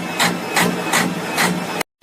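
Vehicle engine idling with a regular clatter about two and a half times a second, cutting off abruptly near the end.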